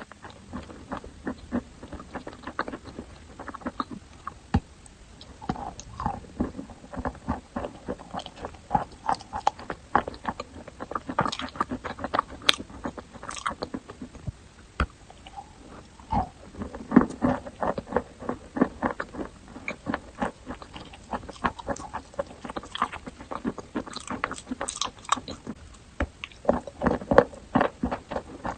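Chalk being bitten and chewed: many short, sharp crunches in irregular runs, thicker and louder in a few bursts of chewing.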